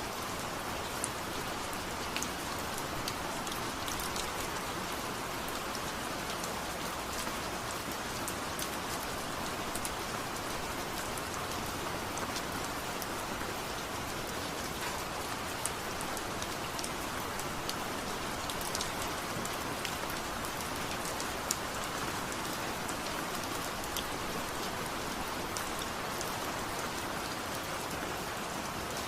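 Steady rain: an even hiss with scattered small ticks of drops landing.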